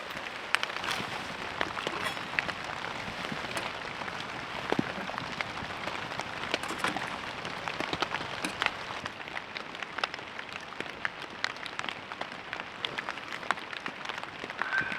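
Steady rain falling on the hot tent, with sharp single drop strikes at irregular moments.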